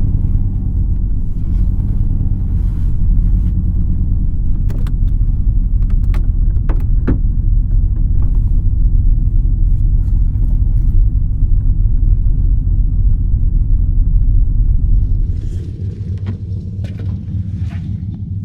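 Chevrolet Silverado's engine idling after a remote cold start, a steady low rumble heard from inside the truck-bed camper. A few sharp clicks come in the middle, and the rumble grows quieter about fifteen seconds in, followed by light rustling.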